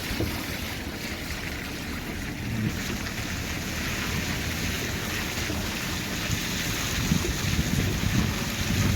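Wind buffeting the microphone, an uneven low rumble, over a steady rushing hiss.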